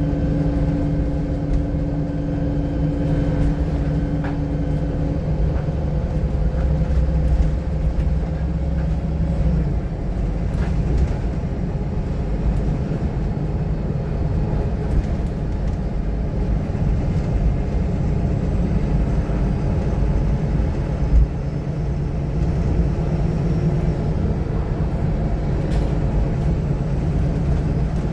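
Diesel engine and road noise of a VDL SB200 single-deck bus, heard from inside the bus while it is moving. A steady engine drone with several tones stops about a third of the way in, leaving a rumble. The drone builds again in the last third, with one sharp knock just before it.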